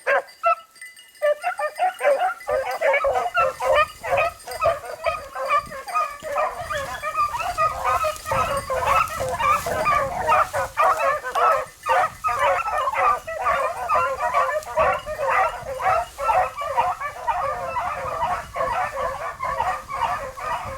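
A pack of beagles baying on a rabbit's trail, many voices overlapping in a continuous chorus that picks up about two seconds in after a brief lull.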